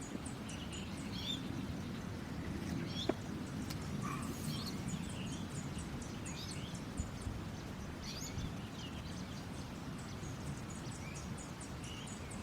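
Small birds chirping now and then over a low, steady background rumble, with one sharp click about three seconds in.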